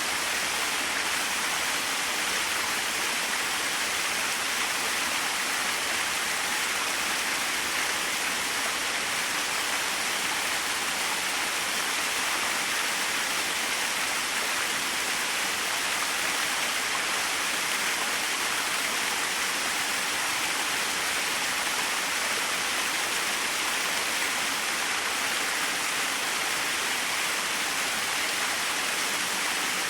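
Small waterfall splashing steadily, an even hiss of falling water with little low rumble.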